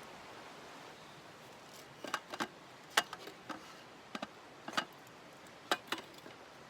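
About a dozen sharp, irregular clicks and snaps, starting about two seconds in and stopping near the end, over a steady background hiss.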